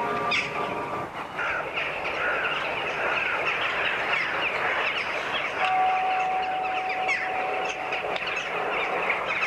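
Many birds chirping and calling at once, a dense chorus of short, quick calls. From about six seconds in, a steady held musical note sounds beneath it.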